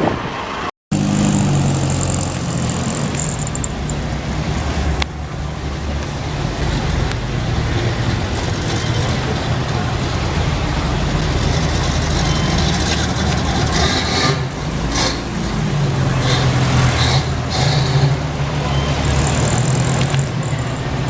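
Street traffic with a motor vehicle engine running steadily and a low hum, and other vehicles passing; the sound cuts out for an instant about a second in.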